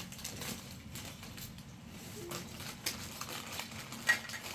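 Scattered light clicks and taps over a faint low hum, with one sharper knock near the end.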